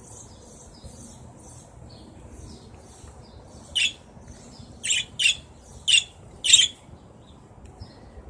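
Caged pet birds chirping: soft high twitters at first, then five loud, short, sharp chirps close together in the second half.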